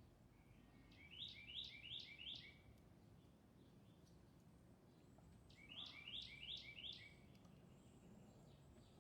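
A songbird singing twice, each phrase a quick run of four or five repeated high chirping notes, about four seconds apart, over faint background noise.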